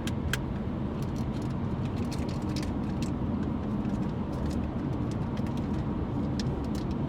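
Steady low rumble of a car, heard from inside the cabin, with a few light clicks and ticks scattered through it.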